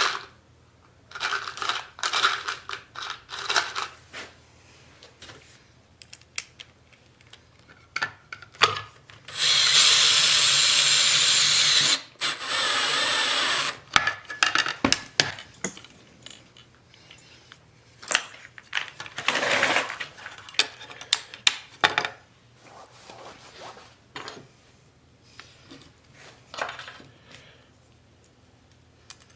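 Workshop sounds of handling metal parts: scattered clanks, clicks and knocks, with a power tool running for about two seconds near the middle, then briefly again more quietly with a high whine.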